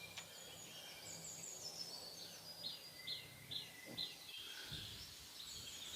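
Wild birds calling faintly: a run of four short, down-curving chirps at about two a second in the middle, with thin high whistles around them, over a steady background hiss.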